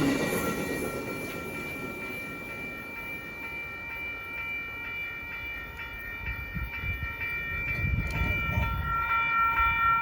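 Railroad grade-crossing warning bell ringing steadily as a train approaches, its low rumble growing louder over the last few seconds.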